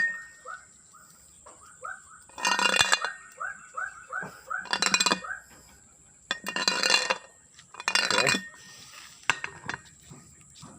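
Rebuilt Honda CR-V drive shaft being flipped over, with something loose inside it sliding and clinking metallically each time, four times about two seconds apart. The rattle inside the shaft is a fault left after the rebuild.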